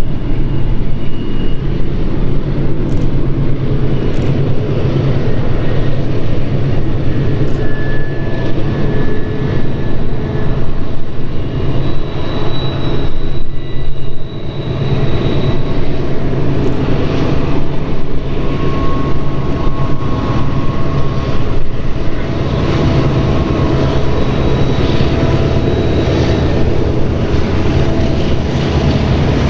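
Freight train passing close, its diesel locomotives running with a steady low drone over the rumble of the train, with scattered brief high squeals.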